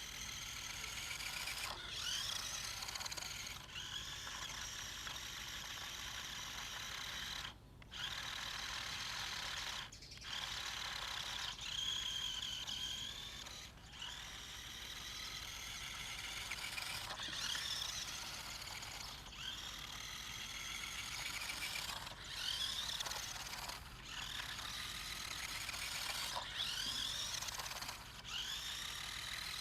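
Toy remote control car's small electric motor and plastic gearbox whining, cutting out every few seconds and rising in pitch each time it speeds up again.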